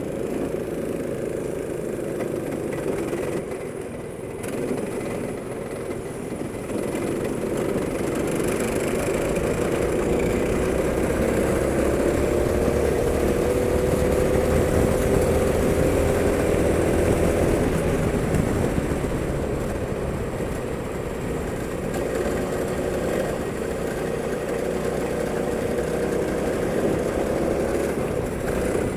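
Go-kart engine running while driven, its pitch climbing slowly for several seconds about a third of the way in, then easing back and holding fairly steady.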